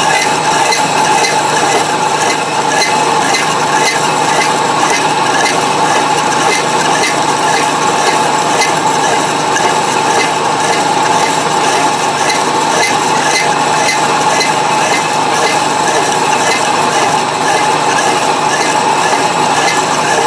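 Milling machine running under power, taking a cut along the edge of a wood chipper blade: a steady mechanical hum with a regular tick about twice a second.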